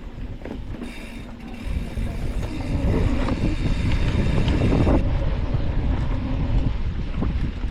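Wind buffeting an action-camera microphone on a moving bike, with the rumble of tyres rolling over the trail and a few short clicks and rattles. The rumble grows louder about two seconds in.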